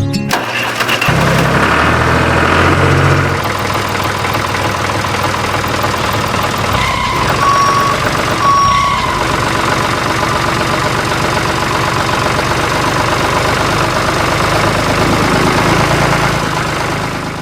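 Small tractor engine running steadily, with two short high beeps a little over a second apart near the middle.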